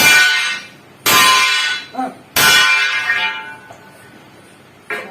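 Three hammer blows on steel, about a second apart, each a sharp clang that rings on and fades over about a second.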